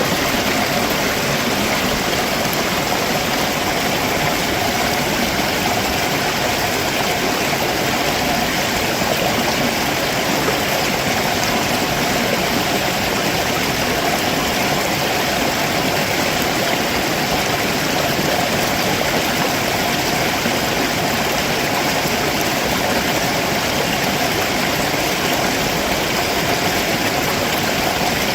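Stream running fast over rocks below a waterfall: a steady, unbroken rush of water.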